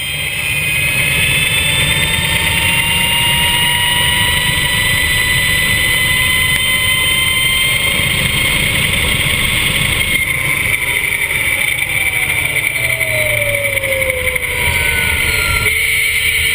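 Mission R electric superbike at speed: its electric motor's whine climbs slowly in pitch, then falls about twelve seconds in as the bike slows, over a steady low rush of noise.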